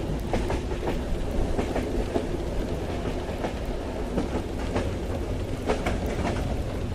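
Ambience of a train ride in the rain: the carriage's steady low rumble on the rails, with scattered light ticks and clacks throughout.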